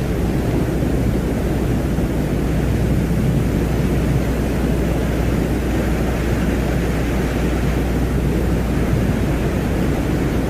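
Steady, deep rumbling noise drone with a low hum underneath and no breaks or changes: a space-ambient soundscape billed as the sound of the planet Venus.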